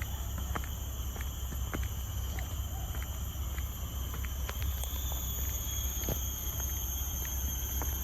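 Steady chorus of forest insects, several high continuous tones at once, with irregular light ticks of footsteps and a low steady rumble underneath.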